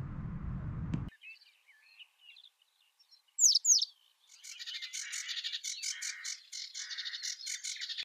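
Birds chirping: a few scattered chirps, two loud downward-sweeping whistles about three and a half seconds in, then a dense run of rapid chirping. Before that, a steady low hum runs for about a second and cuts off suddenly.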